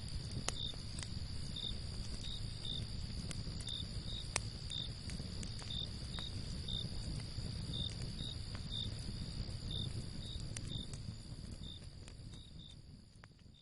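Crickets at night: one steady high trill and a second cricket chirping irregularly, a little more than once a second. Under them are the sharp pops of a crackling campfire and a low rumble. It all fades out over the last couple of seconds.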